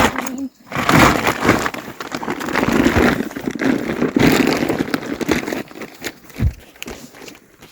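Rustling and crinkling in bouts as feed is handled for the mules and horses, with a short dull thud near the end.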